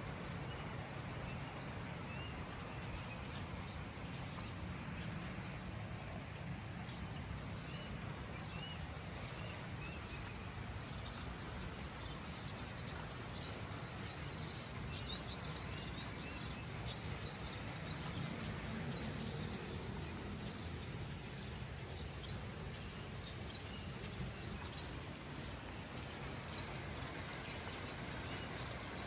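Outdoor nature ambience: a steady low background noise with wildlife chirping over it. A few short calls come in the first seconds, then repeated runs of brief high-pitched chirps through the middle and latter part.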